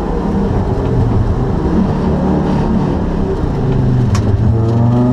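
Rally car engine heard from inside the cabin, driven hard on a wet stage over road and tyre noise. A brief sharp tick comes about four seconds in, and the engine pitch then rises steadily under acceleration.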